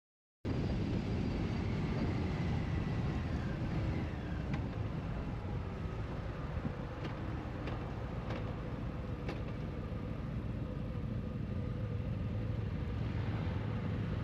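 Motorcycle engine running steadily under way, with road and wind noise. It cuts in abruptly about half a second in.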